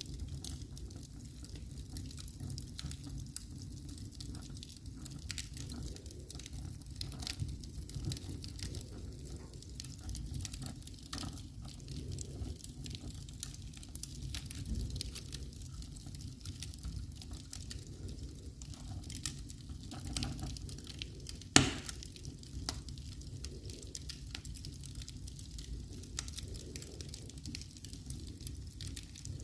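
Wood fire burning in a fireplace, crackling with frequent small pops over a low steady rumble. There is one sharp, loud pop about three quarters of the way in.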